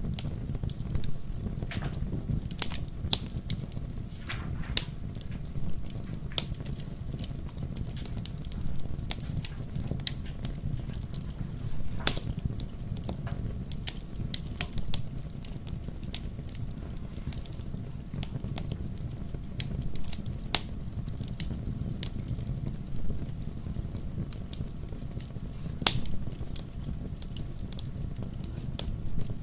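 Wood fire crackling: irregular sharp pops and snaps over a low steady rumble, with the loudest pops about twelve seconds in and near the end.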